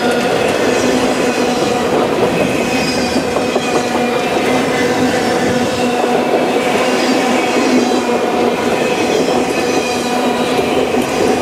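Freight train autorack cars rolling past close by: a steady loud rumble of steel wheels on rail, with thin high-pitched squealing tones from the wheels coming and going over it.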